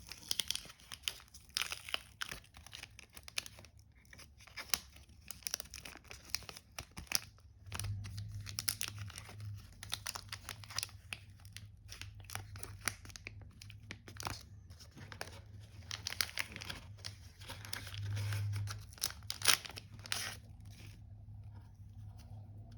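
Panini sticker packets being torn open and their wrappers crinkled, with the stickers handled in between: a dense run of short tearing and crackling rustles that thins out near the end. A low steady hum comes in about eight seconds in.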